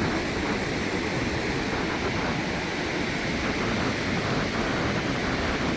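Steady rush of small waves rolling and washing onto the beach shore.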